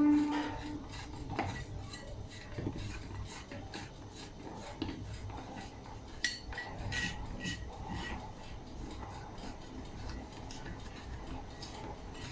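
A utensil scraping and clinking irregularly against a dish and tray as leftover bits of baked cake are scraped off the sides of the baking tray.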